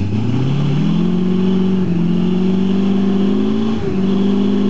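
Chevy 350 small-block V8 in an off-road Jeep revving up over the first second and then held at high revs under load as it climbs a muddy trail, dipping briefly twice before picking straight back up.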